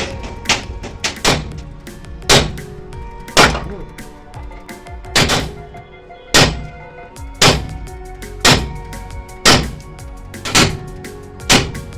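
Heavy hammer blows on a steel truck chassis frame being straightened, about one strike a second, each leaving the metal ringing.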